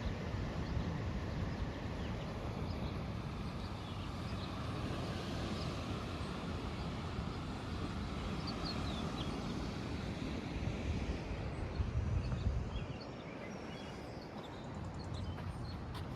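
Steady outdoor noise of the ocean with faint bird chirps. A louder low rumble swells about twelve seconds in and drops away about a second later.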